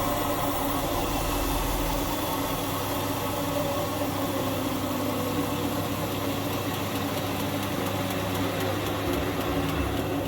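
Indesit washing machine's drum motor coasting with its power cut, a steady mechanical running hum whose deepest note drops away about two seconds in. Fast, faint, evenly spaced ticking builds up in the second half.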